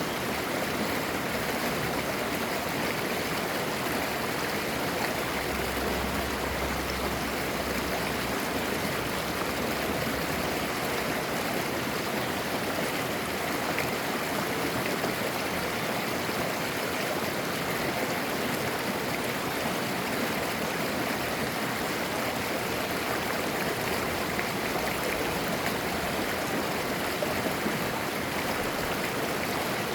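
Clear mountain stream flowing and babbling over rocks, a steady rush of water.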